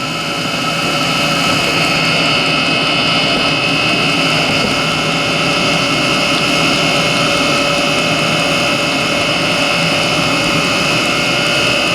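Chinese diesel heater running steadily, its combustion-air blower and burner making a constant rushing noise with a steady whine over it. It is still burning the last of its fuel while the fuel pump draws air.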